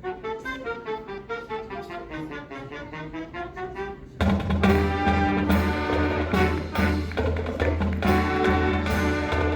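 High school marching band playing: a softer passage of moving melody, then about four seconds in the full band comes in loud, with heavy low brass and drum hits.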